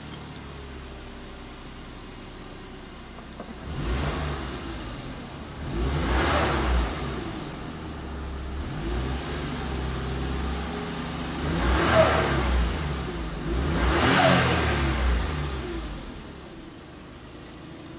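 Suzuki Every Wagon DA64W's 660 cc three-cylinder engine idling and revved up and back down several times, the blips coming about 4, 6, 12 and 14 seconds in. This is the engine running after its belt tensioner pulley, which had been making an abnormal noise, was replaced.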